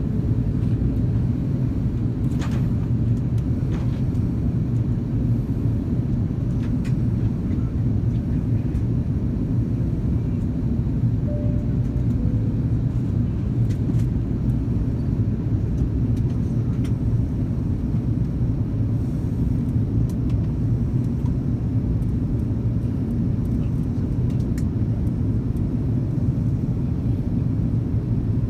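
Steady low rumble of an Airbus A330-200 airliner in flight: the constant drone of engines and airflow, with a few faint clicks here and there.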